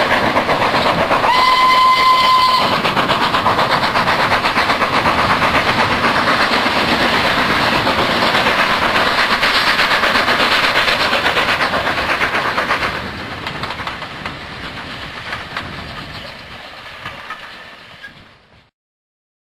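Train running on rails with fast rhythmic wheel clatter, sounding a short steady whistle about a second in. The running sound drops to a lower level about two-thirds of the way through, fades, and then cuts off abruptly.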